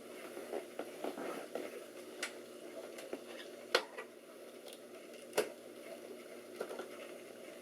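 Sharp plastic clicks and knocks from handling parts inside a desktop computer, likely memory modules being pulled from their latched slots, over a steady low hum; the two loudest clicks come a little before and after the middle.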